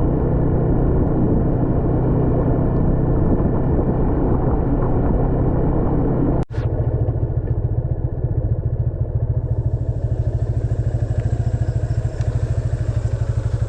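Motorcycle engine running steadily, with rushing wind and road noise. It cuts off abruptly about six and a half seconds in; after that the engine runs on with an even pulsing beat and less rush.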